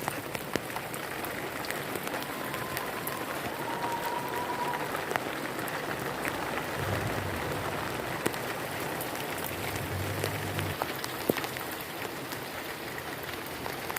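Steady rain falling, an even hiss dotted with sharp ticks of single drops striking a surface. Two short low rumbles come about seven and ten seconds in.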